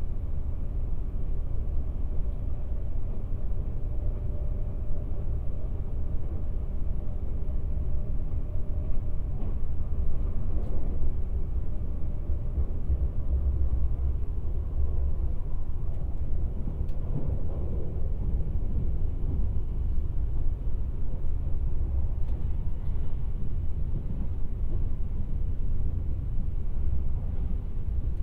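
Running noise heard inside the passenger cabin of a Kintetsu 26000 series Sakura Liner electric express train: a steady low rumble of wheels on rail, with a few faint clicks.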